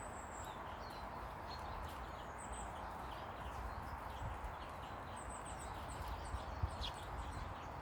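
Small garden birds calling with thin, high chirps over steady outdoor background noise, including a quick run of short repeated notes about five seconds in.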